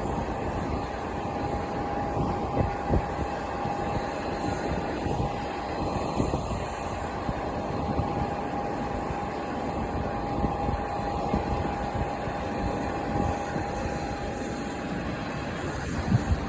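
Boeing 737-800's CFM56 jet engines on landing approach: a steady whine over a low rumble. Strong wind buffets the microphone.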